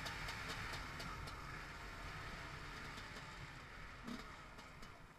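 A 300 cc two-stroke enduro motorcycle engine easing off and fading down toward idle, with scattered small clicks.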